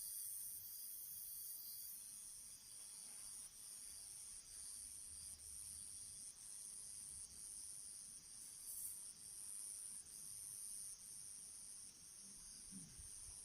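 Crickets chirping in a steady high-pitched trill, broken by short gaps about once a second.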